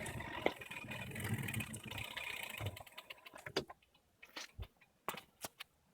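Electric-bike drivetrain with a Bafang BBS02 mid-drive motor and Shimano Nexus 8 internal gear hub, running with a low rumble for about three seconds before winding down. After that come a handful of scattered sharp ticks.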